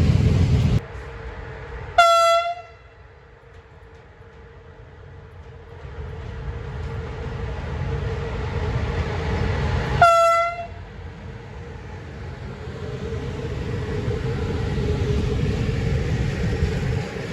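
Locomotive horn sounding two short blasts about eight seconds apart, each dipping slightly in pitch as it ends, over the growing rumble of an approaching train.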